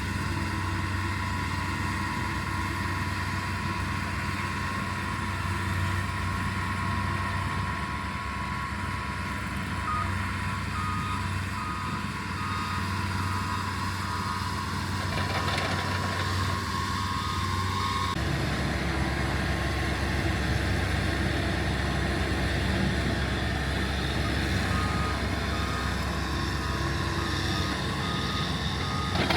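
Engine of earthmoving equipment running steadily, with a backup alarm beeping rapidly from about a third of the way in. The engine note gets heavier a little past halfway.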